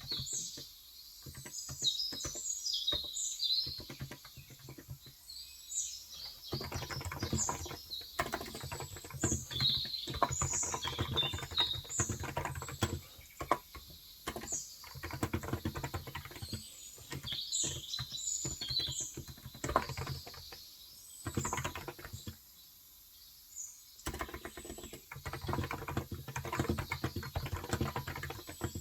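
Fast typing on a Cox Endeavour electrostatic capacitive (non-contact) tenkeyless keyboard with 35 g switches, in runs of rapid keystrokes broken by short pauses. Small birds chirp repeatedly over the typing.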